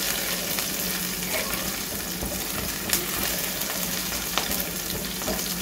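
Chopped green chillies and cumin seeds sizzling in hot oil in a frying pan, stirred with a wooden spatula, with a couple of sharp clicks.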